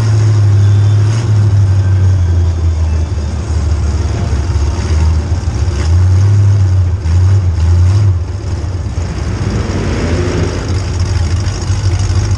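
A car's engine running loudly with a deep drone that rises and falls, swelling near the start and again for a couple of seconds about midway, then easing off.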